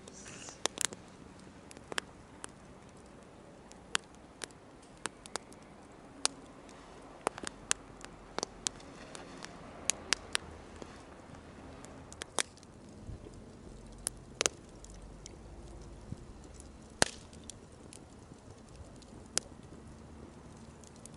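Wood campfire crackling: a low hiss of burning with irregular sharp pops and snaps, a loud snap about two-thirds of the way in.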